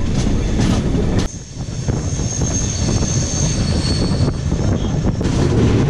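Express train running: the steady rumble of the coach on the rails with wind on the microphone. A faint high whine rises over it in the middle.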